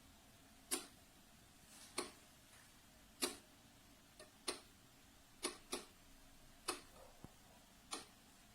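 A series of sharp, short ticks at uneven spacing, about one a second, some coming in quick pairs.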